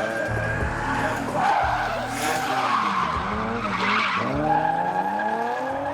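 Drift cars' engines revving up and down hard while the tyres skid and squeal, with two louder screeches a couple of seconds in and again about four seconds in.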